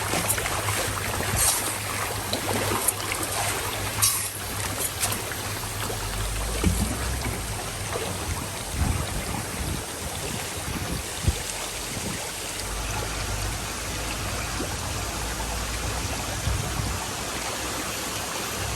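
Steady rush of running and splashing water at a fish-culture tank, with a low rumble that comes and goes from about six seconds in.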